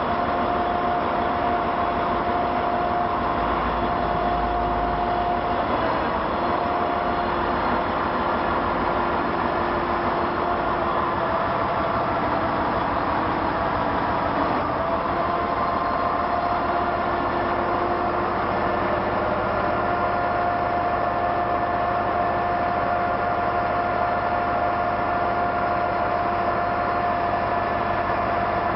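Heavy tow truck's engine running steadily, a constant drone with a steady whine that dips briefly a couple of times.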